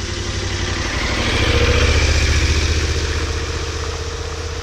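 KTM 1290 Super Adventure R motorcycle's V-twin engine running at a steady pitch. It swells louder about two seconds in, then eases back.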